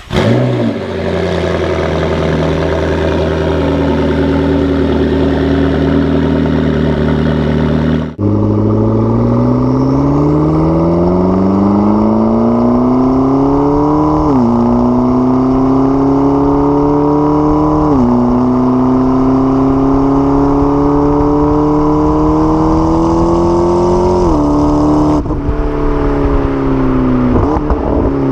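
McLaren 12C's twin-turbo V8 holding a steady engine speed for about eight seconds, then accelerating hard: the engine note climbs and drops sharply at each of three upshifts.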